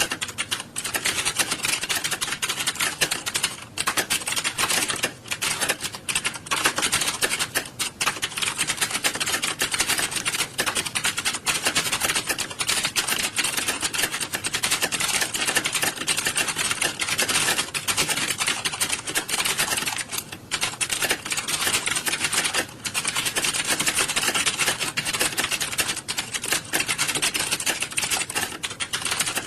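Fast, continuous typing on computer keyboards: a dense stream of key clicks with only brief pauses, the sound of a room of typists working at once.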